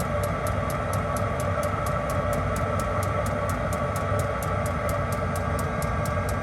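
Chinese diesel heater running: its fuel dosing pump ticks evenly, about five ticks a second, over the steady hum of the heater. The heater is being fed diesel drawn from the bus's main fuel tank.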